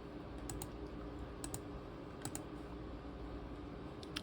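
Keys and buttons of a ThinkPad T23 laptop being pressed: a few light clicks, several coming in quick pairs, over a steady low hum.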